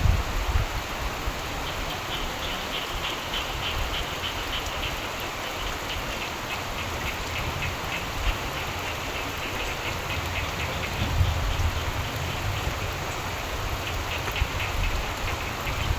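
Steady rain with frogs calling in fast pulsing trills through much of it, and low rumbles of distant thunder at the start and again about eleven seconds in.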